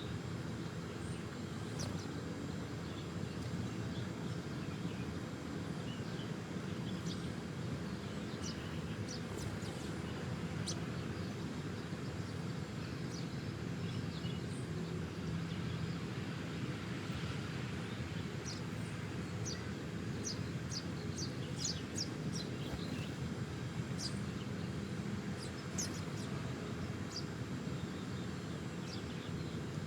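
Small birds giving short, high chirps, in scattered runs of quick notes, over a steady low background rumble.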